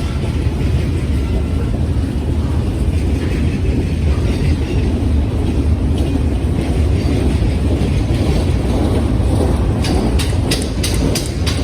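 BNSF train passing close by, its cars rolling with a steady low rumble. Near the end a rapid, even clicking begins as wheels cross rail joints, about three clicks a second.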